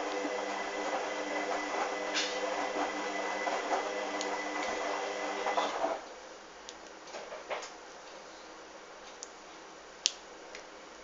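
Hoover washing machine running with a steady motor hum that stops about six seconds in, leaving a quieter background with a few light clicks.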